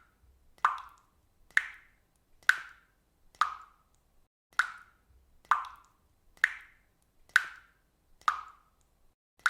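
Water dripping one drop at a time at a steady pace, about one drop a second. Each drop is a short, clear plop that dies away quickly.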